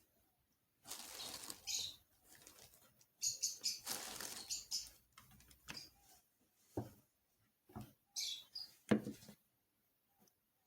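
Kitchen handling sounds: a few bursts of rustling and scraping, then several short dull knocks in the second half.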